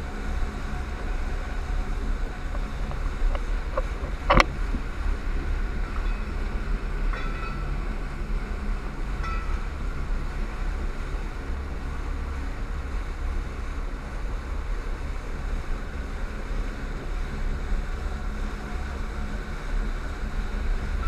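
Tour boat's engine running steadily with a low rumble under wind and water noise, with one sharp knock about four seconds in.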